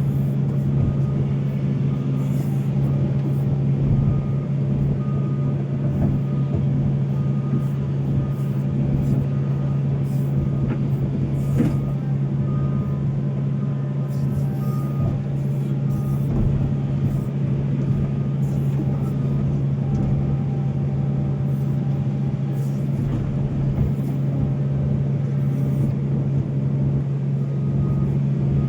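Volvo excavator's diesel engine running steadily under work, with a faint beep repeating at intervals above it and a single knock about midway.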